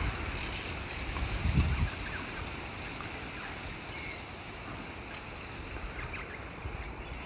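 Wind blowing outdoors and buffeting the microphone in a steady rush, with low rumbling gusts at the start and again around one and a half seconds in.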